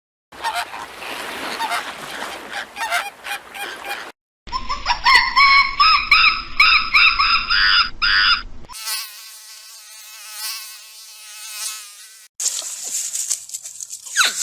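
A string of different animal sounds cut together: first a noisy rustle with clicks, then a fast run of repeated calls, then a steady buzz, then a high hiss with falling squeals.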